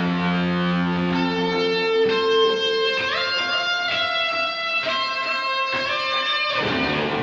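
Music: a guitar playing sustained notes, with a rising slide about three seconds in.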